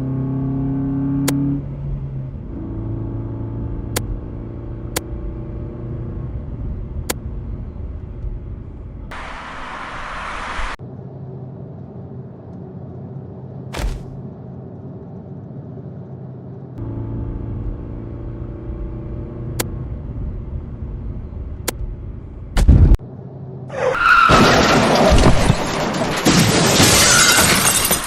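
Animated car-crash sound effects. A car engine runs steadily, with a short noisy burst a little under halfway through. Near the end comes a sharp thump, then a loud, drawn-out crash.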